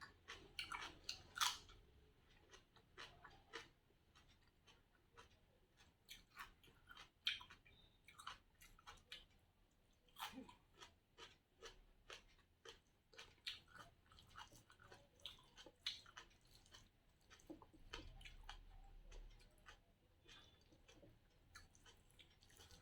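Close-miked mouth sounds of a person chewing rice and curry eaten by hand: irregular wet clicks and smacks, several a second at times, with brief pauses.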